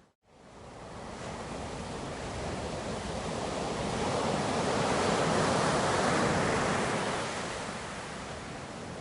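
Ocean surf: a wave swells, breaks and washes back, loudest about halfway through, then eases off. Right at the start the sound drops out to silence for a moment, like an edit or loop join, before fading back in.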